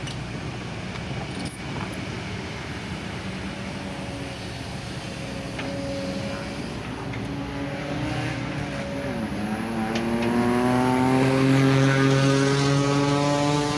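Kobelco SK200 Super X excavator's diesel engine running under hydraulic load. About nine seconds in it dips, then revs up and grows louder as the machine works, with a few faint knocks.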